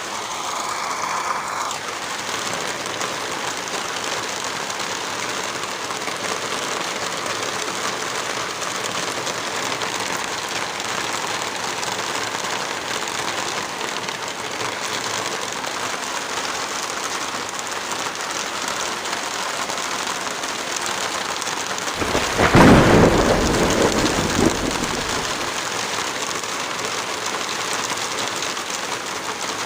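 Heavy rain falling as a steady, even hiss. About three-quarters of the way through, a deep rumble swells up for roughly three seconds, louder than the rain, then fades back into it.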